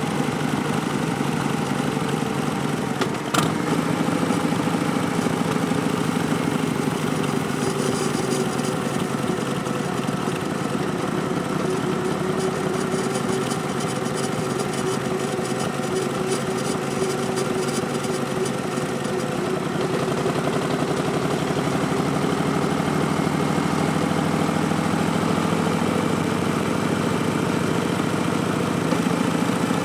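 Harley-Davidson Street Bob's Milwaukee-Eight V-twin running under way through Vance & Hines Twin Slash slip-on exhausts, a steady engine note that shifts in pitch about twenty seconds in and rises slightly near the end. A single sharp click about three seconds in.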